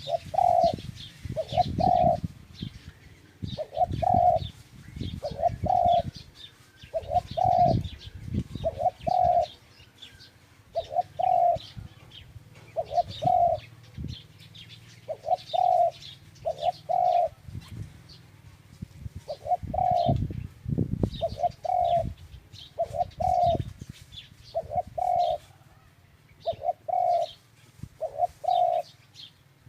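Dove cooing: short coos in pairs, repeated every second and a half to two seconds, with faint high chirps of small birds and an intermittent low rumble underneath.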